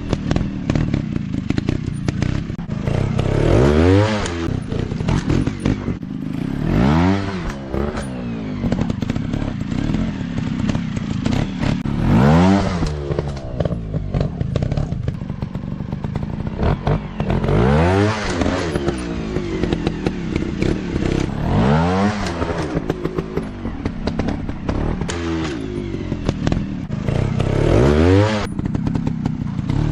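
Off-road dirt bike engine revved in repeated bursts, its pitch rising and falling about every three to five seconds over a steady lower running note.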